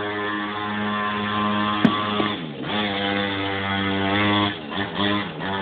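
Small mini moto (pocket bike) engine running at high revs. Its pitch dips and climbs back twice as the throttle is eased and reopened, and there is one sharp click about two seconds in.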